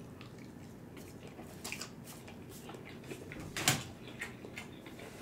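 Close-miked mouth sounds of a person chewing a big mouthful of stir-fried noodles: soft wet smacks and clicks, with a louder smack a little past halfway.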